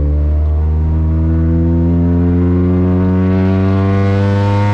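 Car engine accelerating hard in one gear, its note rising steadily, heard from inside the cabin.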